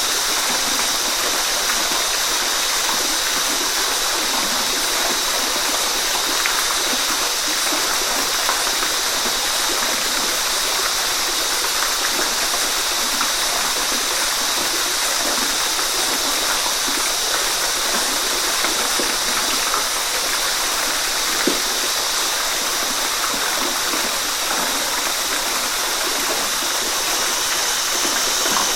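Waterfall: falling water splashing and rushing steadily, a dense even hiss with no let-up.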